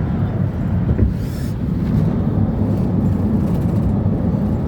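Steady low rumble of a BNSF coal train rolling slowly past, with a brief click and a short hiss about a second in.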